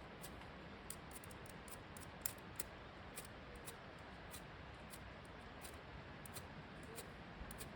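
Wood fire crackling in a fire pit: irregular sharp snaps and pops over a faint steady hiss, one louder pop a little over two seconds in.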